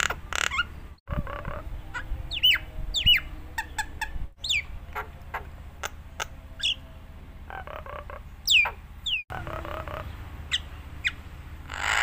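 Jalak Nias myna singing a varied song of sharp whistles sliding down in pitch, quick clicks and harsher chattering notes. Brief sudden dropouts about one, four and nine seconds in break the song, over a faint steady low hum.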